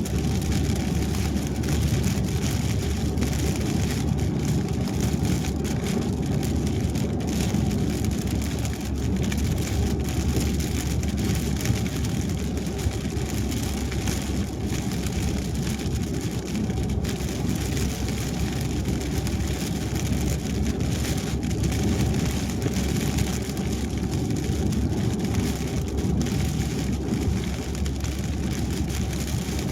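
Car driving on a wet highway in the rain: steady tyre and road noise mixed with rain.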